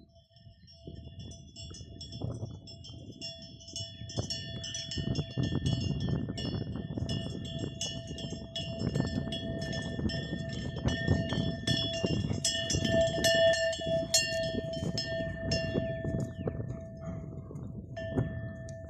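Several bells of different pitches, worn by free-roaming horses, clanking and ringing irregularly as the animals move, over low noise. The bells start about a second in and grow busier toward the middle.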